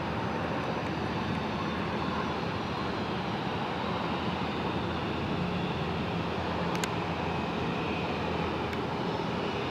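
Aircraft engine noise, a steady even rumble with no rise or fall, with a faint click about seven seconds in.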